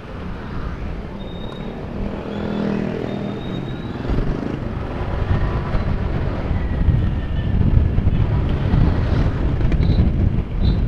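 Road noise while riding a motorcycle: wind rumbling on the microphone over the running engine and passing traffic, growing louder after the first few seconds.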